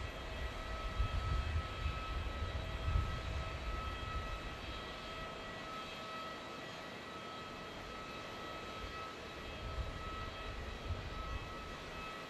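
Jet airliner's engines with a steady high whine over a low rumble; the rumble eases in the middle and comes back near the end.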